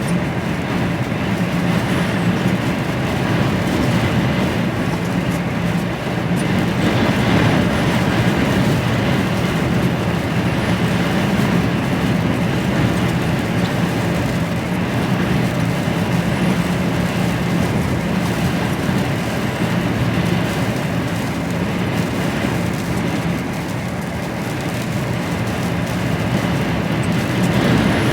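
Steady in-cab drone of an HGV lorry cruising on the motorway: diesel engine hum under steady road noise.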